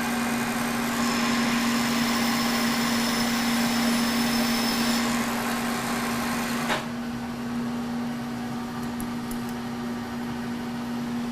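K&T horizontal mill running as a lathe, its spindle drive giving a steady hum while a turning tool takes a ten-thousandths cut on the chuck mounting plate. The cutting hiss stops suddenly about two-thirds of the way through as the cut ends, leaving the machine's hum.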